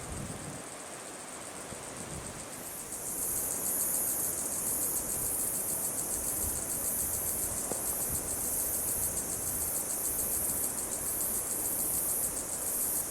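Insects calling outdoors in a high, rapidly pulsing trill that swells much louder about three seconds in and then holds steady, over a low background rumble.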